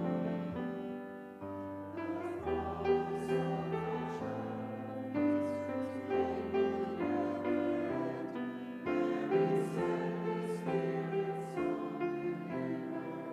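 Slow, hymn-like music on piano, with sustained chords changing about once a second.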